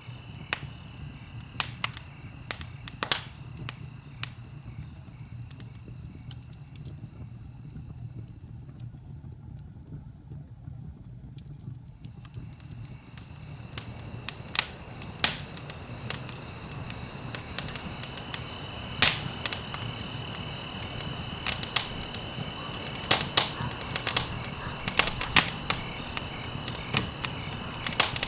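Wood fire crackling in a fireplace: sharp pops and snaps scattered over a low steady rumble of burning, coming thicker in the second half.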